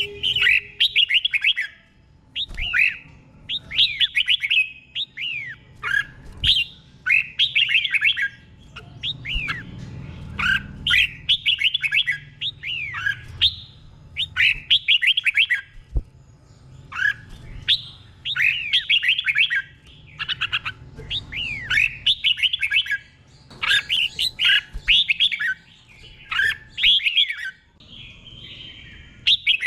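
Red-whiskered bulbul singing: short phrases of quick, falling whistled notes, repeated about once every second or two with brief pauses between them.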